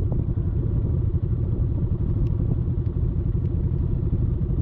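Off-road vehicle engine running at a steady, unchanging speed while riding, a fast even pulsing without revving.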